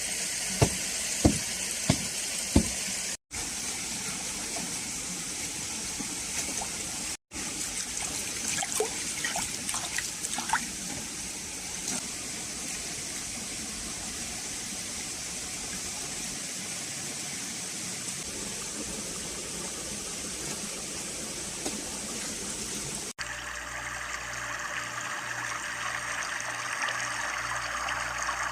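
Mountain spring water running and splashing steadily, with a few evenly spaced knocks in the first couple of seconds. Near the end the sound changes abruptly to a different water hiss with a low pulsing hum.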